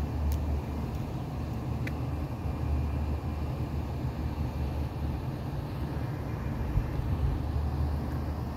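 Steady low rumbling background noise, with a faint tick about two seconds in.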